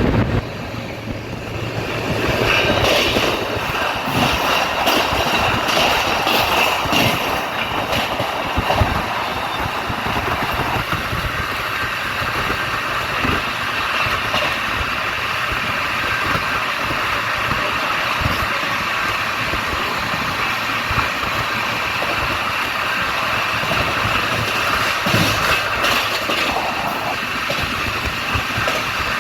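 Mahabodhi Express passenger train running on the track: steady wheel-on-rail noise with frequent short clicks and rattles.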